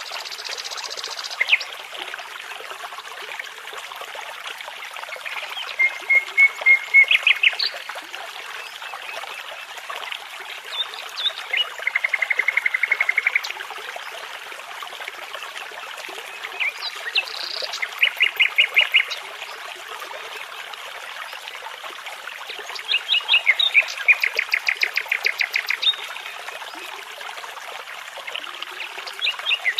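Nightingale song, short phrases of rapid repeated notes and trills every few seconds with pauses between, over the steady rush of a babbling brook.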